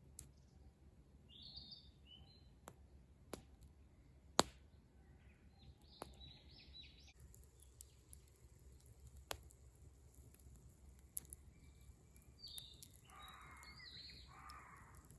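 Faint bird calls and chirps, a short call early on and a burst of several calls near the end, with a few scattered sharp pops, one of them louder a little over four seconds in.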